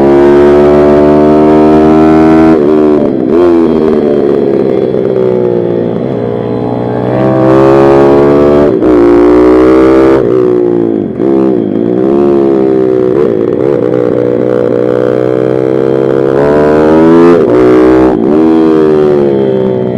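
Pit bike's small single-cylinder four-stroke engine run hard on track, the revs climbing in long pulls and dropping sharply several times as the throttle is shut and the rider shifts down for corners.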